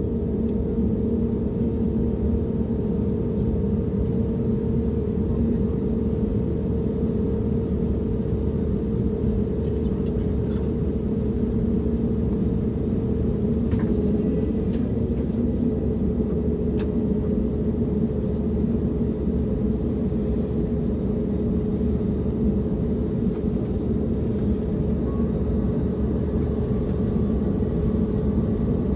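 Steady cabin noise inside an Airbus A321neo airliner: an even engine rumble with a constant low hum, and a few faint clicks about halfway through.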